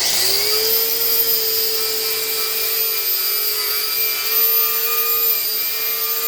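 Motor-driven wire wheel starting up, its pitch rising briefly, then running steadily as it scrubs rust, corrosion and old grease off the Subaru Impreza's brake caliper slider pins.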